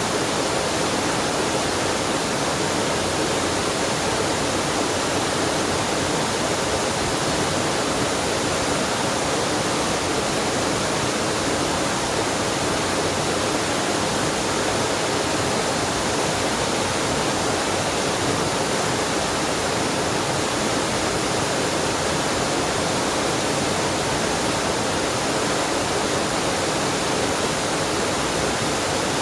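Waterfall and mountain stream rushing, a steady unbroken wash of falling and flowing water.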